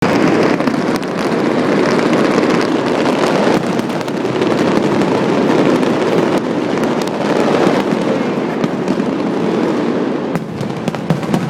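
Fireworks display: a dense, continuous barrage of overlapping bangs and crackles with no break.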